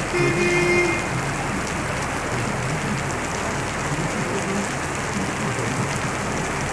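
Heavy rain falling steadily, an even rushing hiss of rain on hard surfaces. A short steady tone, about a second long, sounds near the start.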